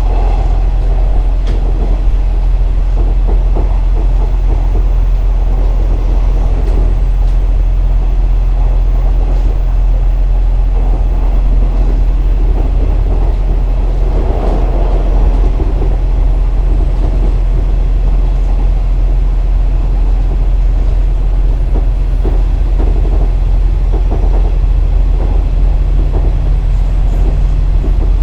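KiHa 47 diesel railcar heard from inside while running: a steady low diesel-engine drone under the rumble of wheels on rail, with scattered clicks from rail joints.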